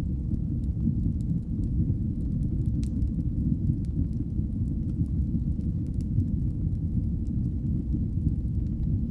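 Wood fire burning in a fireplace: a steady low rumble of flames with faint, scattered crackles.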